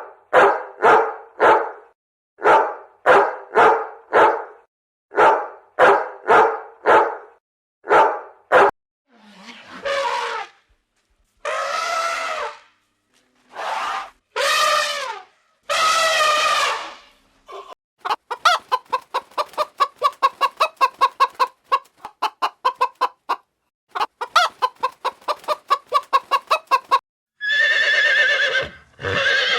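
A run of animal calls: short calls in quick pairs and triples for the first several seconds, then a few long drawn-out calls, then a fast stuttering string of calls, and another long call near the end.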